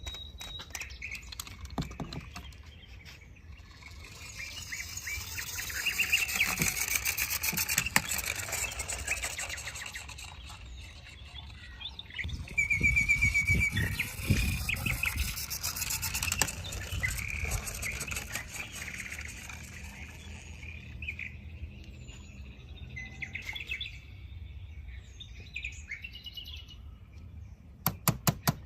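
Small birds chirping and twittering in a busy chorus that swells twice, with a low rumble under the second swell.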